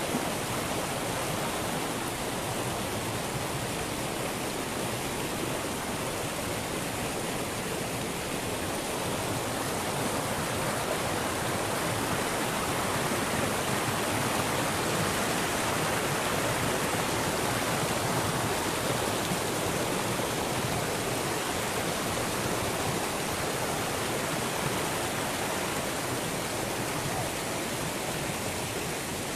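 Fast-flowing floodwater rushing steadily, the overflow of swollen mountain drains running across the road.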